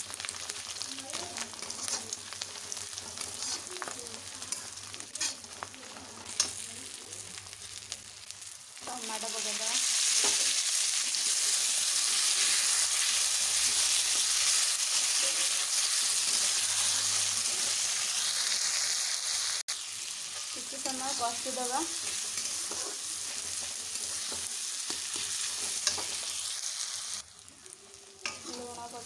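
Masala frying and sizzling in hot oil in a kadai while a steel spatula stirs and scrapes the pan. About nine seconds in the sizzle turns much louder and hisses hard for about ten seconds, as chopped tomatoes go into the hot oil, then drops back to a lower sizzle.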